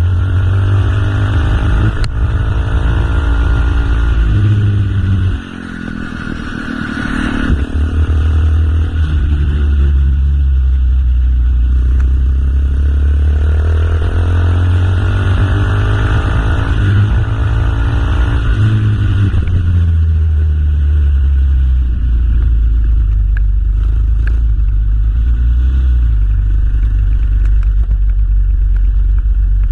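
Motorcycle engine running under way, its pitch climbing and falling back several times as it revs through the gears, with a short drop in loudness about five seconds in.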